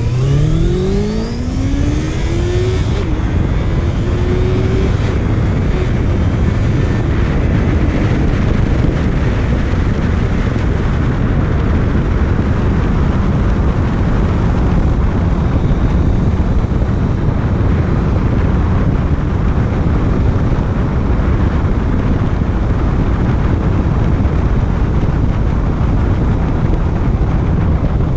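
Honda CB650F inline-four motorcycle engine rising in pitch as it accelerates over the first few seconds, then holding steady at cruising speed under loud wind noise on the microphone.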